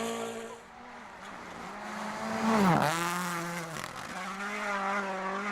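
WRC Rally1 car's turbocharged four-cylinder engine running at high revs while driven on snow. Its pitch drops sharply about two and a half seconds in and climbs straight back, with a smaller dip about four seconds in.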